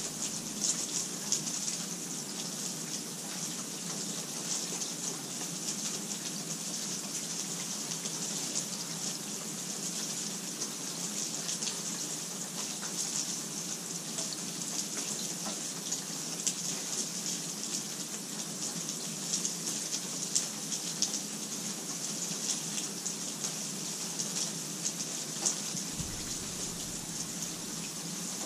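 Steady rain falling: a continuous even hiss with many small drop patters scattered through it.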